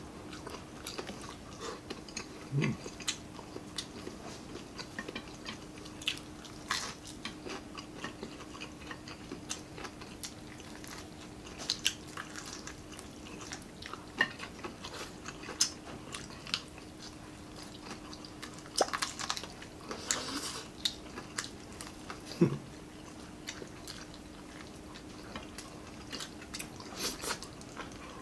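Close-up chewing and biting of crispy fried chicken neck eaten by hand: scattered crunches and wet mouth clicks over a faint steady hum.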